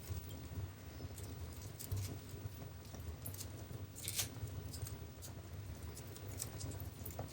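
Wood fire burning in a fireplace: a low steady rumble of the flames with irregular crackles and pops, the loudest a quick cluster of pops about four seconds in.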